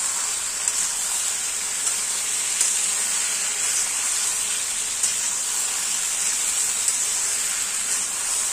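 Chicken pieces, tomato and green chillies sizzling in hot oil in a black iron kadai as they are stirred with a spatula: a steady frying hiss with a few light clicks of the spatula against the pan.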